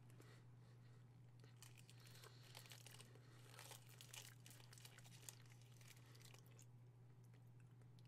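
Near silence: faint chewing of a chocolate truffle, with scattered soft clicks and rustles, over a steady low hum.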